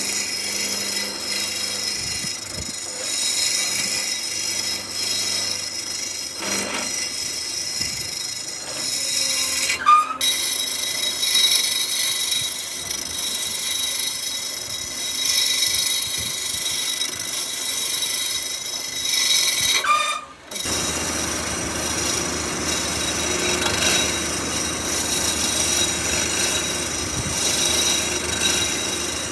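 Power tool working wood: a steady noise that breaks off abruptly twice, about a third and two thirds of the way through, and sounds different after the second break.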